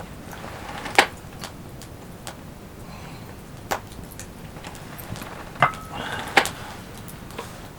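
A few sharp, scattered clicks and knocks over a low steady background, the loudest about a second in; one about two thirds of the way through rings briefly, like a clink.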